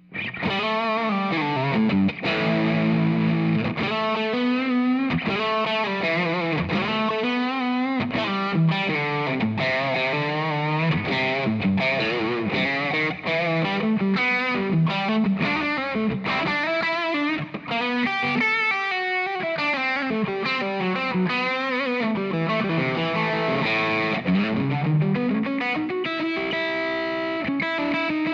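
Lentz Telecaster electric guitar played through a J. Rockett Chicken Soup overdrive pedal into a Marshall-style tube amp, with the gain turned up: quick single-note lead lines full of bends and vibrato, settling into held notes near the end.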